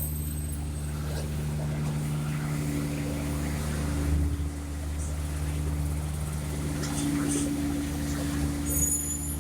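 Heavy diesel engine running steadily with a deep, even hum. There is a thump about four seconds in and a brief high-pitched squeal near the end.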